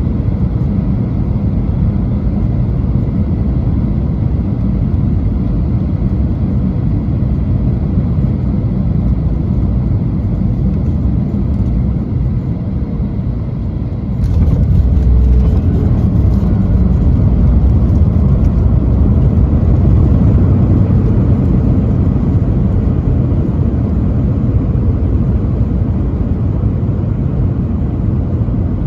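Cabin noise of a Boeing 737 landing: a steady low rumble of engines and airframe, then about halfway a sudden louder rush with added hiss that stays up as the jet touches down and rolls out on the runway.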